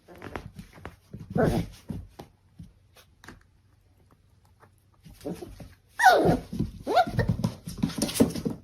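A dog whining and vocalising in pitched cries that slide down in pitch. It gives a few short cries early on and a louder, longer run from about six seconds in.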